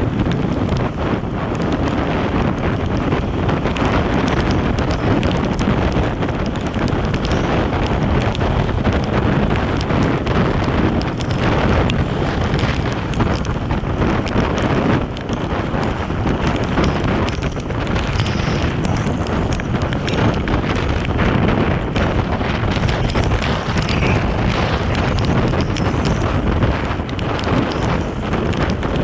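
Steady wind rushing and buffeting over the microphone of a moving motorcycle, mixed with the ride's road noise.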